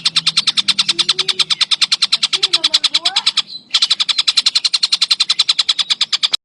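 A bird's fast, even rattling call: a dozen or so sharp notes a second, repeated without let-up, with a brief break about three and a half seconds in. This is a bird-call master recording of the kind played to caged songbirds to teach them.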